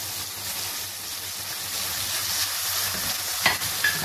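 Marinated chicken strips sizzling in hot oil in a wok while being stirred with a wooden spatula: a steady frying hiss, with two sharp taps of the spatula near the end.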